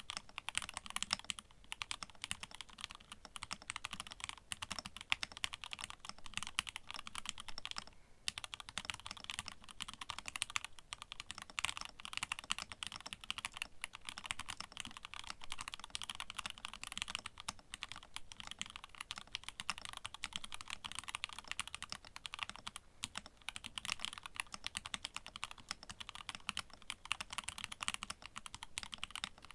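Continuous fast typing on a TGR x Linworks Dolice mechanical keyboard with an aluminium plate, lubed and filmed Nixie switches, Durock stabilisers and GMK keycaps. There is a dense run of keystrokes with a brief pause about a quarter of the way in.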